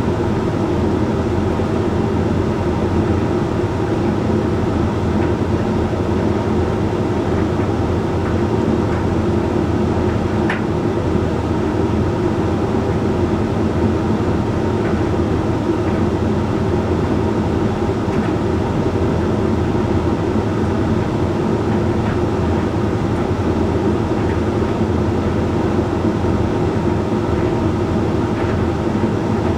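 Hoover Link X Care HLX C10DRGR condenser tumble dryer running: a steady motor and fan hum under the noise of the turning drum, with small faint ticks from the load tumbling.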